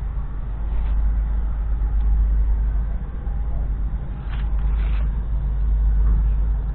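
Roadless Ploughmaster tractor's Ford 290E 5.4-litre six-cylinder diesel running steadily, under a heavy low rumble, with a few short hissy surges about a second in and again around four and five seconds in.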